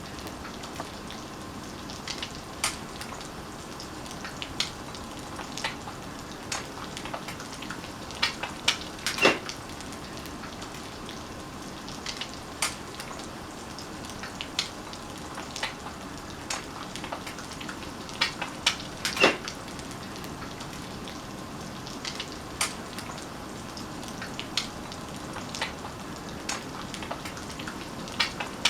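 Egg frying in a pan: a steady sizzle with irregular sharp pops and crackles, the loudest about 9 and 19 seconds in.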